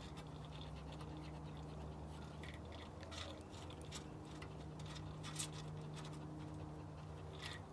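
Faint scratching of a brush or comb working through a bichon's curly coat, with a few soft clicks, over a steady low electrical hum.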